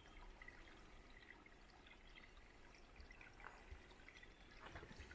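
Faint trickle of a small mountain stream.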